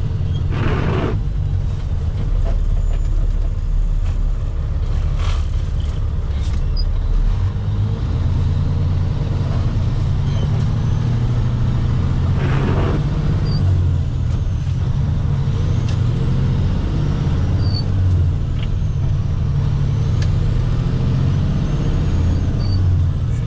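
Water truck driving, heard from inside the cab: a steady low drone of engine and road noise. Two short higher sounds break in, about a second in and about halfway through.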